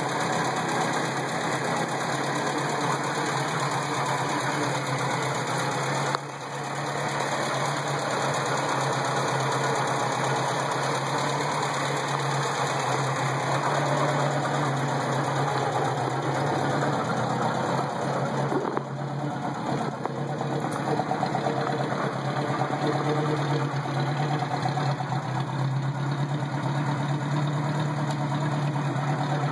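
Moskvich 402's side-valve inline-four engine running steadily at idle. The owner notes that the water pump is a little noisy and that the valve clearances need adjusting.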